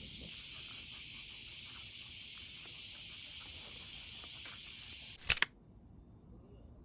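A steady, high-pitched chorus of summer insects, with faint footsteps underneath. About five seconds in, a sharp double click cuts it off, leaving quiet room-like background.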